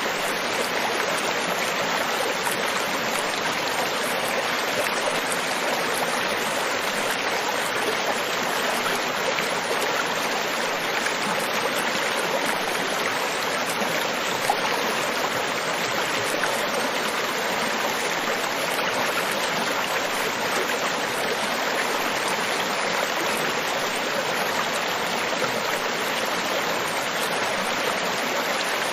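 Steady rushing water, an even hiss that holds level throughout, with one brief tick about halfway through.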